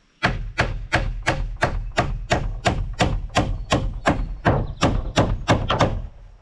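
Hand hammer driving a nail into lumber: a steady run of blows, about three a second, stopping shortly before the end.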